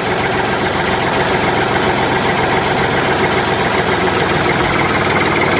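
Tractor engine idling steadily, with a rapid, even firing rhythm.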